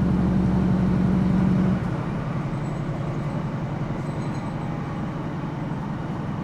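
On board a Class 156 Sprinter diesel multiple unit: the underfloor Cummins diesel engine drones steadily under power, then about two seconds in its note drops away as the power comes off, leaving the quieter rumble of the train running along the track.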